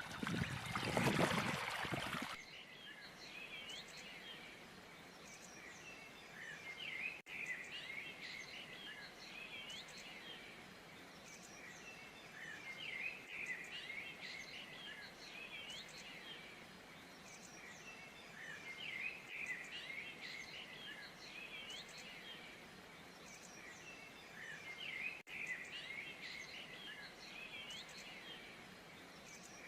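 A loud rushing noise for about the first two seconds, then many small birds chirping and chattering at once, with short rising whistles, continuing without pause.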